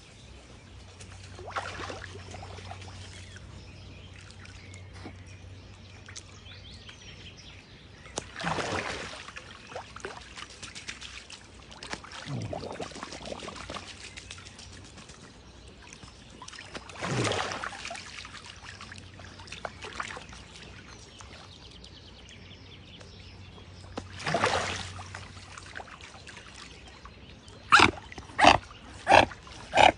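A swan calling: a few separate hoarse calls several seconds apart, each falling in pitch. Near the end comes a regular run of short, louder calls at about two a second.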